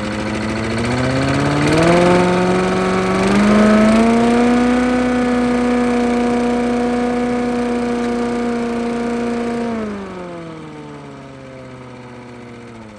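Jiangdong 5.5 hp single-cylinder engine, running on a newly fitted carburetor, revved up from idle in two steps and held at a steady high speed. After about ten seconds it is throttled back and slows down, fading near the end.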